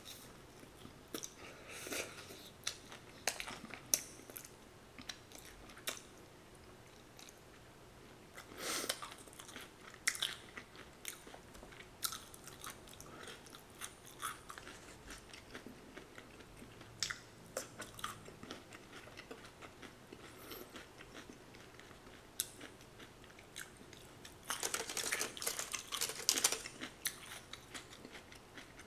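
Close-up chewing and crunching of crispy fried chicken, with scattered sharp crackles of the crust and a denser spell of crackling near the end.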